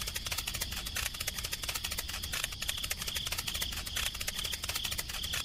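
Rapid, steady mechanical clicking from a small mechanism, starting just before and running evenly throughout, with a steady high insect trill behind it.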